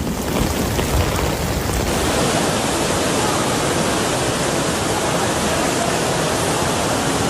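Torrential rain and rushing floodwater: a steady, loud hiss.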